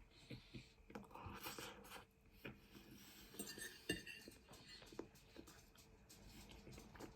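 Cutlery clinking and scraping faintly on a plate, with one sharper clink about four seconds in.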